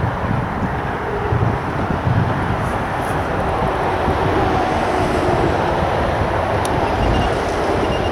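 Steady roar of traffic on the A14 road bridge: tyre noise with a low rumble from heavy vehicles that swells now and then.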